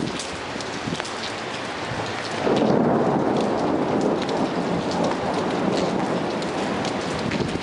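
Heavy rain falling steadily, with individual drops ticking close by. About two and a half seconds in, a roll of thunder comes in and rumbles on for a few seconds before slowly easing off.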